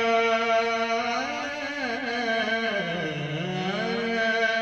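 Male voice singing a Marathi devotional bhajan, drawing a line out in a long, ornamented held note. The pitch dips and climbs back about three seconds in, and the sound fades away near the end.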